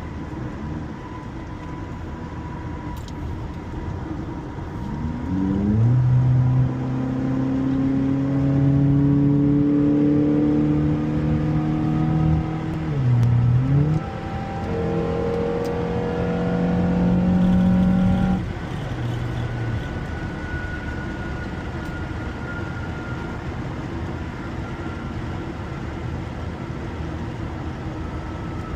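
Honda car's engine pulling under acceleration: after a few seconds of cruise the revs climb steadily, dip briefly at a gear change midway, climb again, then drop off suddenly about two-thirds through as the throttle is lifted, leaving a steady hum of road and tyre noise.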